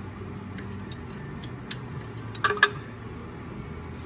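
Metal hand tools clinking and tapping in scattered light clicks, the sharpest a quick double clink about two and a half seconds in, over a steady low hum.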